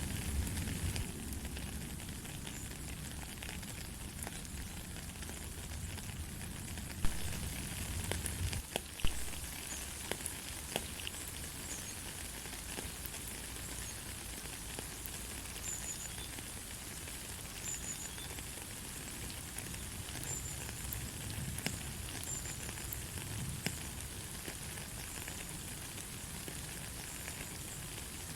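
Steady light rain: an even hiss with a scattered patter of drops, and a few louder drip ticks around seven and nine seconds in. A low rumble underneath stops about nine seconds in.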